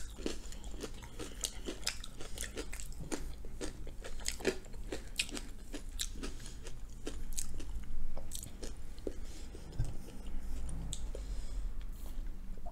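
Close-miked chewing of Korean potato pancake: a quick run of wet mouth clicks and crunches that thins out after about nine seconds.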